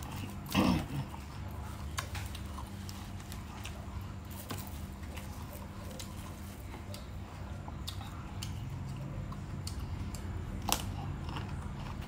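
Close-miked chewing of raw water chives, a run of small crisp clicks and crunches over a steady low hum. A brief louder sound with falling pitch comes about half a second in, and a sharper click comes near the end.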